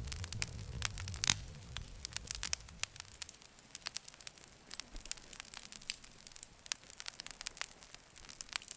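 Campfire crackling, with many sharp pops at an uneven rate, one standing out about a second in, over a low rumble that dies away after about three seconds.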